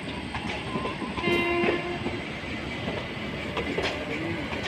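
Passenger coaches rolling past at low speed, wheels clicking over the rail joints, with a short horn blast about a second in.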